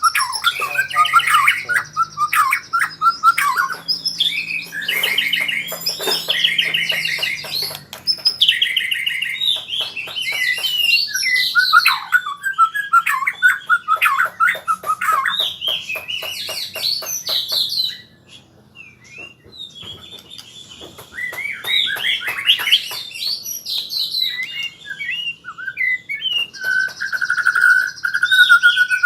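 White-rumped shama (murai batu) singing a fast run of varied whistles, chirps and trills, practising its rolling song. The song breaks off for about two seconds past the middle and ends on a held steady whistle.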